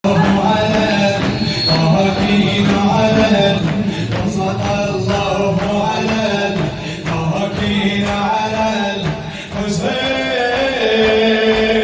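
Male voices chanting a Muharram mourning lament (latmiya) to a steady beat, over a held low vocal drone.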